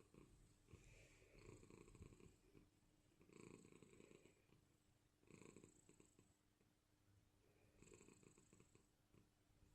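A domestic cat purring, very faint, in slow swells about every two to two and a half seconds.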